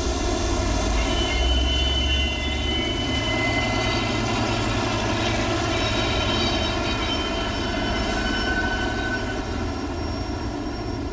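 Diesel passenger train pulling out: a steady engine drone and the rumble of the running gear, heaviest for the first two seconds, with thin high squealing tones coming and going over it.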